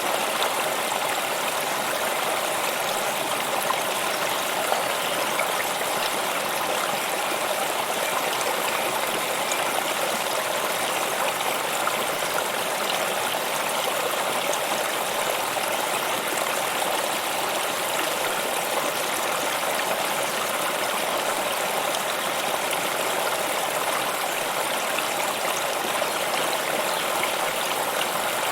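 Stream water running steadily, a constant, unbroken rushing.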